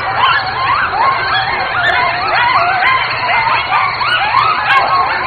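A dense chorus of many animals calling at once, their high, rising-and-falling calls overlapping without a break.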